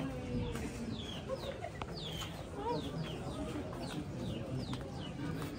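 A bird calling over and over: short high chirps that fall in pitch, about two or three a second, over a low background rumble.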